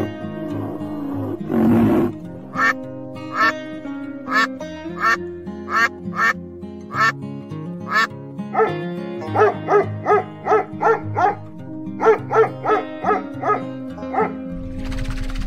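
A flock of Canada geese honking: a series of about twenty short honks that come faster after the middle, over background music. A short low animal call comes just before the honking starts.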